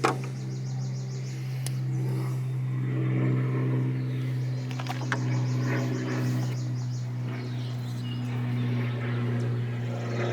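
A steady low mechanical hum with a few small clicks and knocks, and birds chirping faintly in the background.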